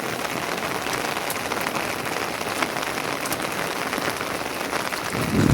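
Steady patter of falling precipitation on a surface, a dense even hiss dotted with fine ticks.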